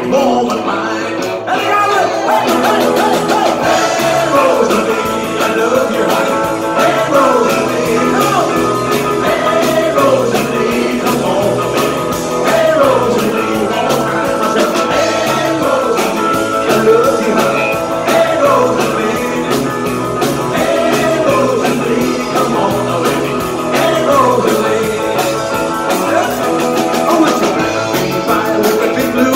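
Rock and roll band playing live, a stretch without lyrics where a melodic lead line weaves up and down over a steady drum beat.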